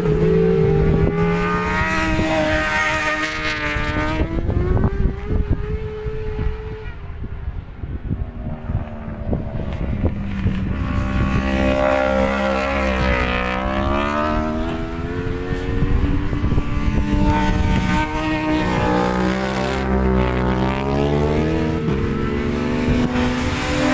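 Racing motorcycles on track, engines revving hard, their pitch climbing through the gears and falling away again several times as bikes pass.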